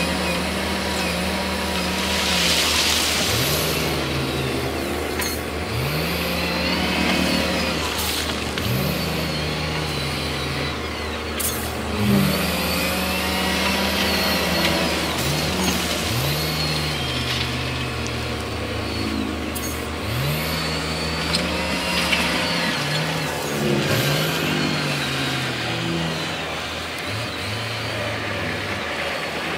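Heavy diesel earthmoving machinery working: engines revving up again and again, every two seconds or so, over a steady low engine hum that drops away a little over two-thirds of the way through.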